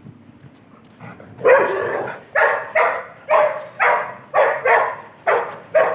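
A dog barking repeatedly: a quick run of about nine sharp barks, starting about a second and a half in.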